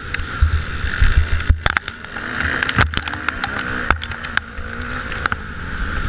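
Motocross bikes racing, their engines running at high revs with the pitch wavering up and down, and frequent short sharp knocks.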